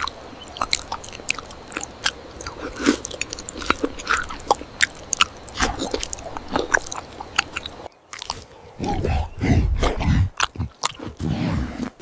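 Close-up mukbang eating sounds: rapid crunching and chewing clicks, then from about 8 seconds in, deeper, heavier munching.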